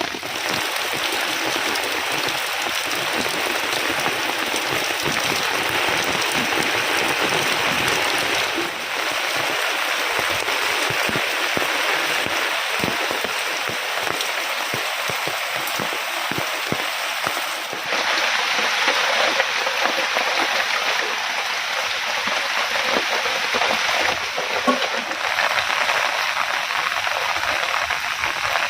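Heavy rain falling steadily, a dense even hiss of drops hitting surfaces, changing character slightly a few times.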